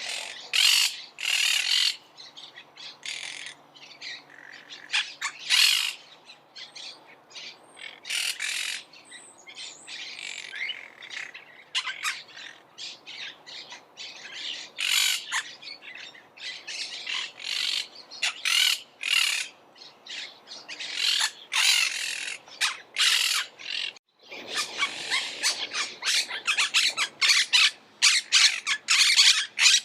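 Monk parakeets giving harsh, squawking calls in a rapid, irregular series. After a brief break near the end, the calls come thicker and more continuous.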